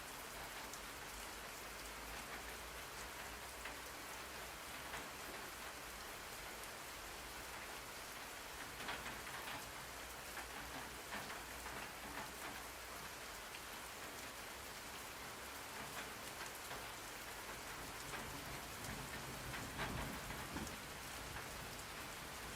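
Steady rain falling on a surface: a dense, even hiss with scattered drop taps, a little heavier about halfway through and near the end.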